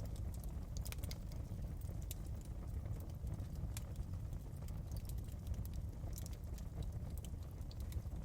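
Fireplace crackling: irregular sharp pops and snaps over a steady low rumble of the burning fire.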